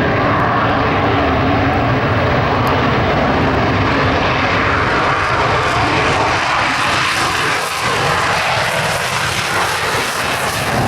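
An F-35A Lightning II in flight, its single afterburning turbofan engine making a loud, steady rushing noise. The noise grows brighter and hissier from about four seconds in as the jet moves relative to the listener.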